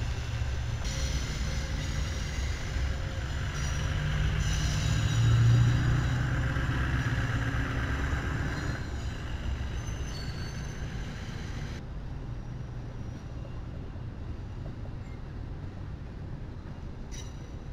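Amtrak diesel locomotives and their passenger cars rolling slowly past: a steady low engine drone with rail noise, loudest about five seconds in, then a fainter, even rumble of the passing cars.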